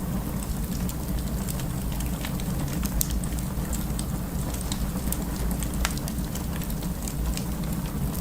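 Wood fire in a fireplace burning with a steady low rumble and many scattered sharp crackles and pops, one louder pop about three seconds in.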